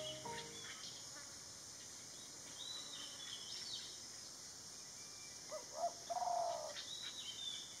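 Garden birds chirping and calling: scattered short, high whistled notes, with a lower, rounder run of calls about three-quarters of the way through.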